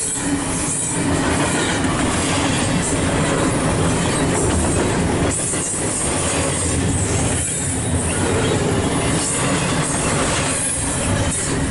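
Double-stack intermodal container cars of a freight train rolling past at speed, a steady clatter and rush of steel wheels on rail.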